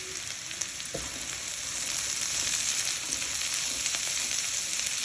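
Mixed vegetables stir-frying in hot oil in a wide kadai: a steady sizzle, with one short knock about a second in.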